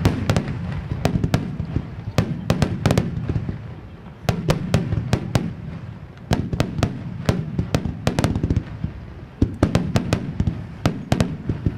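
Aerial fireworks salvo: rapid clusters of shells bursting, several sharp bangs a second in bunches a few seconds long, over a steady low rumble.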